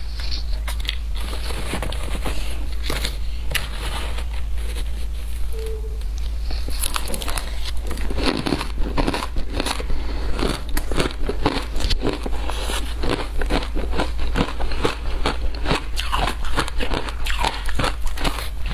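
Frozen matcha ice being bitten and chewed: sharp cracks and crunches, scattered at first, then coming thick and louder from about eight seconds in.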